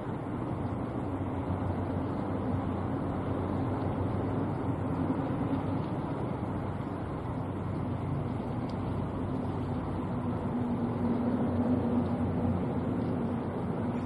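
Steady engine-like hum over a wash of noise, holding even throughout with no distinct impacts.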